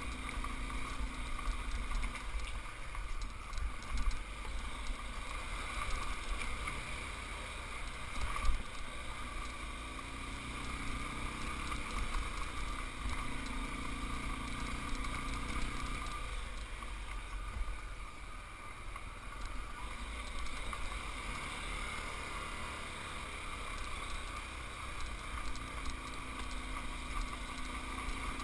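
Motorcycle engine running while riding, its pitch rising and falling with changes in speed, under a low wind rumble on the camera's microphone. There are two brief, louder knocks a few seconds in.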